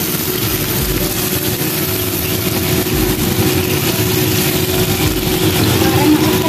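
Bitter gourd slices frying in oil in a wok: a steady sizzle over a constant low hum.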